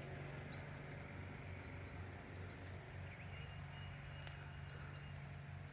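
Faint outdoor ambience: a steady low drone of distant lawn mowing, with a few faint chirps and a couple of brief sharp clicks.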